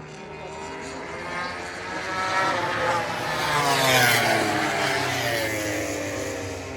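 MotoGP race motorcycle passing at speed: its engine note rises as it approaches, is loudest about four seconds in, then drops in pitch and fades as it goes by.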